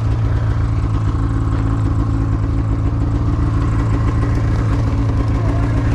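Snowmobile engine running at a steady, even pitch with no revving.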